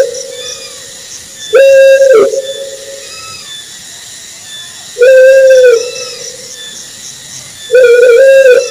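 Owl hooting: a single loud, steady, low hoot of under a second, repeated three times about three seconds apart, with faint higher chirps between the hoots.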